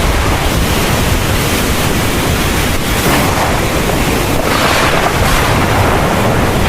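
Heavy rain pouring steadily, a dense even hiss with a constant low rumble underneath, swelling briefly about four and a half seconds in.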